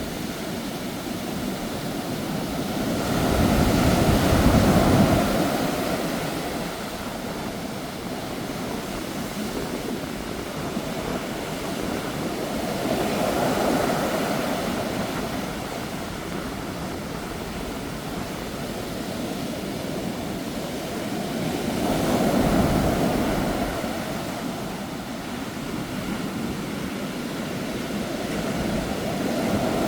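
Sea waves breaking on the shore in a strong wind: a steady rush of surf with a surge about every nine seconds, three in all, and another building near the end.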